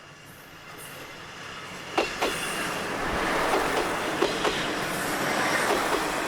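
Diesel railcar rolling along close by. A rising rumble of wheels on rail, with sharp clacks as the wheels cross rail joints about two seconds in and again past the four-second mark.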